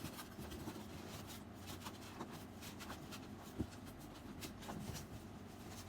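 Packaging being opened and handled by hand: faint rubbing and scraping with scattered small clicks, and one sharper tap about three and a half seconds in.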